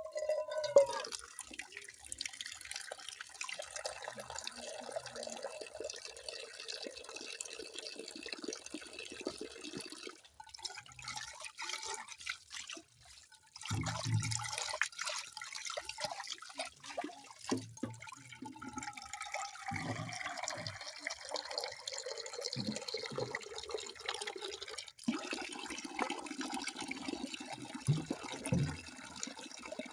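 Running water pouring and splashing, with drips and gurgles, like a tap running into a sink. The sound breaks off and changes character abruptly a few times, about ten, thirteen and twenty-five seconds in.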